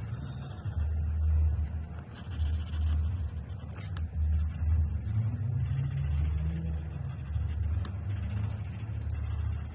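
Touch Twin alcohol marker nib rubbing across paper in several short colouring strokes, each a second or less, over a steady low rumble.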